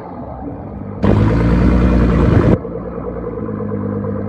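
Car engine and exhaust running steadily, with a much louder stretch starting abruptly about a second in and cutting off about a second and a half later.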